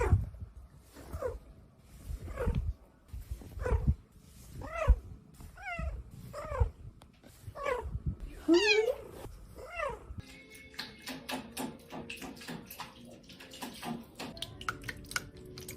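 A cat meowing again and again, about nine separate calls over roughly ten seconds, each rising then falling in pitch. After that the meowing stops and a stretch of short clicks and steady tones follows.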